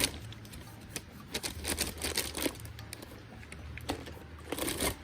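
Irregular clicks and metallic handling noises from a wrench turning out the oil drain bolt on a Kawasaki ZZR1100's engine, with a cluster of clicks near the end.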